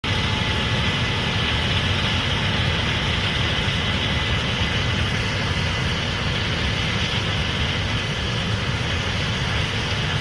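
Case IH 8250 Axial-Flow combine running steadily while harvesting corn: a constant low engine rumble under a broad hiss, with a faint steady whine above it.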